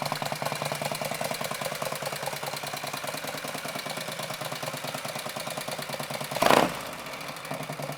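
1962 Harley-Davidson Panhead's V-twin engine running steadily at low speed with an even firing pulse, sounding healthy after its revival. About six and a half seconds in, a brief loud burst of noise cuts across it.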